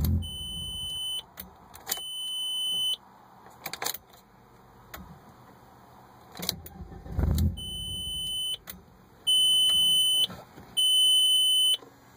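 1998 Audi A4 engine cranking and catching briefly, then dying, twice, right at the start and again about seven seconds in: the car fires but will not keep running. Between the attempts a high electronic warning chime sounds in about one-second beeps, with scattered clicks.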